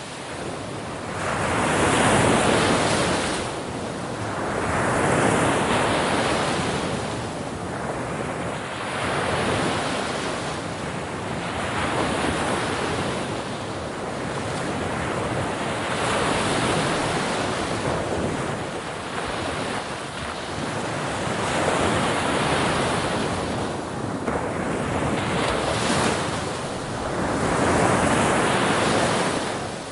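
Ocean surf: waves breaking and washing up the shore in a continuous rush that swells and eases every few seconds.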